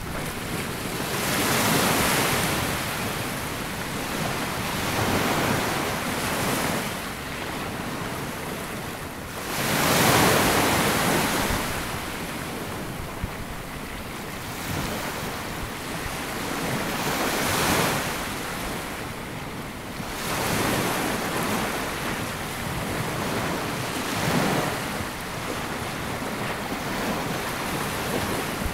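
Small waves breaking and washing up a sandy beach, each swell of surf rising and falling every few seconds, the biggest about ten seconds in, over a steady hiss of water and some wind on the microphone.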